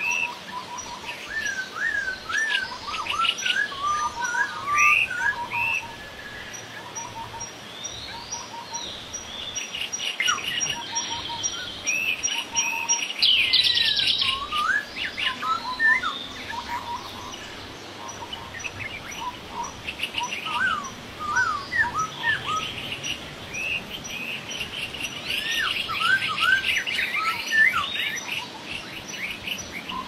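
Birds calling and singing: varied whistled glides, chirps and rapid trills, overlapping throughout, with a faint steady high-pitched pulsing tone behind them.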